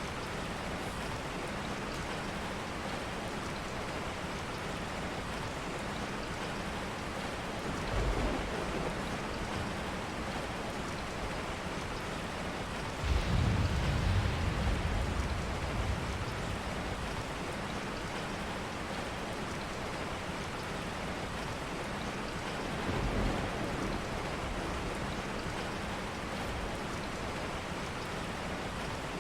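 Steady rain falling, an even hiss of drops. Three low rumbles swell under it: one about a third of the way in, a louder, longer one near the middle, and a smaller one about two thirds through.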